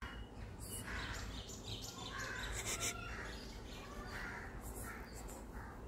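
Birds calling: a string of short calls and chirps, over a steady low rumble.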